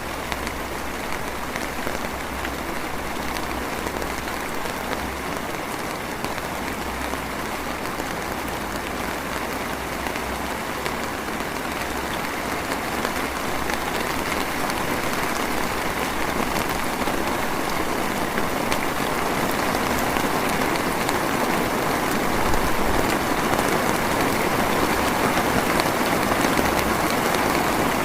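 Light rain, a drizzle, falling steadily as an even hiss and slowly growing a little louder.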